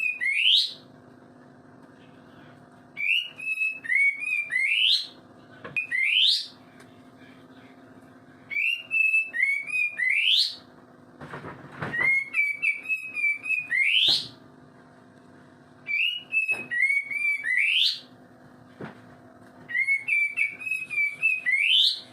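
Kapas tembak songbird in full 'gacor' song: six repeated phrases of quick warbled notes, each ending in a sharp upward-sweeping whistle, a few seconds apart. A steady low hum runs underneath.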